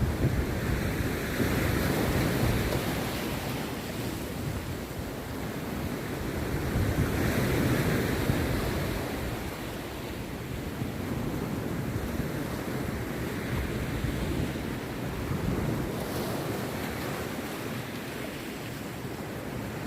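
Rough sea surf breaking on a beach: a continuous roar of waves that swells louder and eases off every several seconds as each set crashes and washes in.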